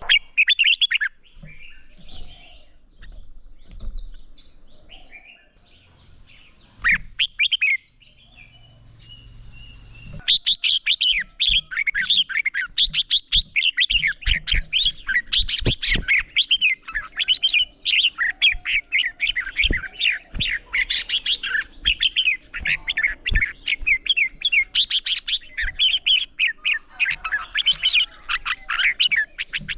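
Red-whiskered bulbuls singing in competition: a few scattered phrases for the first ten seconds or so, then a dense run of rapid, high song notes packed close together.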